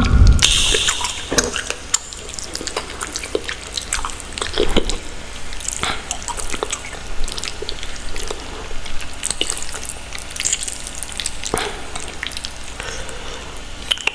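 Irregular wet, sticky clicks and squishes of saucy instant ramen noodles being handled close to the microphone, over a low steady hum. There is a thump at the very start.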